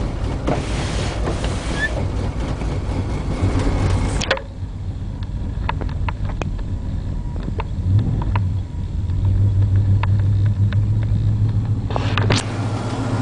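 Straight-piped Chevy 350 small-block V8 with a lumpy cam idling steadily while still cold, just after a cold start in deep frost. Wind noise on the microphone cuts out about four seconds in and comes back near the end.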